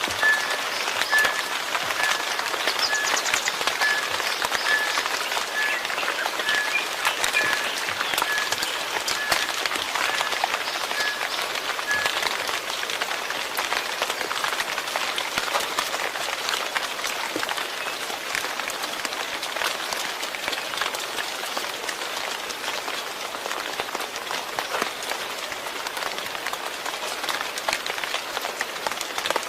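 Steady rain falling, dense with the patter of individual drops. For about the first twelve seconds a short high peep repeats about twice a second over it.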